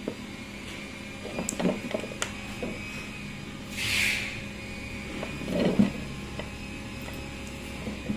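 Scattered light knocks and clicks of objects being handled, in two clusters, with a short hiss about four seconds in, over a steady low hum.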